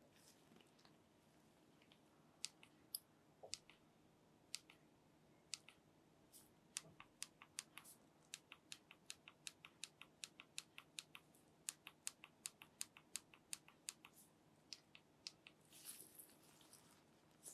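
Faint, light clicks of typing, a few scattered at first, then a steady run of about three to four a second through the middle that tails off near the end.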